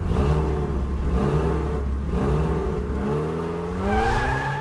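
Car engine revving hard about four times over a deep rumble, each rev swelling up in pitch and the last one climbing highest.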